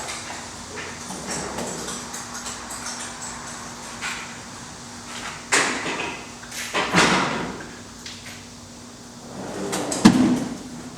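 Rustling and scraping with several knocks, about five and a half, seven and ten seconds in, the last the loudest.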